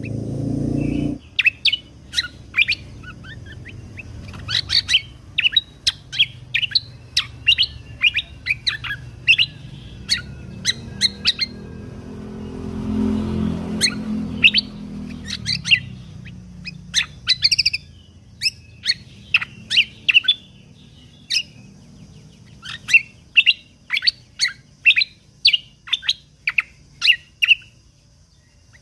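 Kecial kombok (cucak kombo) songbird giving a long run of short, sharp, high chirps and call notes in quick succession, with a brief pause midway. A low rumble sits underneath for a few seconds in the middle.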